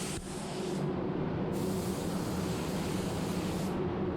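Spray gun hissing as it lays base coat at full fan and full fluid, about 2 bar; the spray stops briefly about a second in and again near the end as the trigger is let off between passes. A steady low hum runs underneath.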